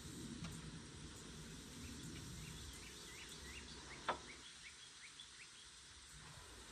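Small bird chirping in a quick series of short rising notes, with a single sharp click about four seconds in, over a faint low rumble.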